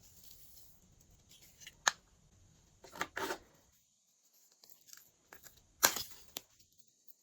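Glossy slime being worked by hand, giving a few sharp clicks and short crackly pops. The loudest pop comes near the end, with another cluster of crackles midway.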